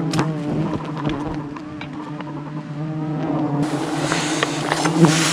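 Bees buzzing close to the microphone: a steady low drone whose pitch wavers and glides as the bees fly past. A loud hiss joins for the last two seconds or so.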